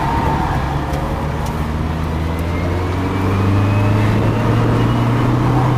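Cabin sound of a Chevrolet Equinox-based Challenge X car accelerating around an autocross course. The engine note climbs steadily and gets louder about three seconds in, with a thin high whine rising alongside it.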